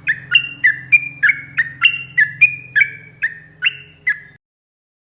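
Yellow-vented bulbul (trucuk) singing a fast, continuous run of bubbly, warbled notes, about two or three a second, cutting off suddenly about four seconds in.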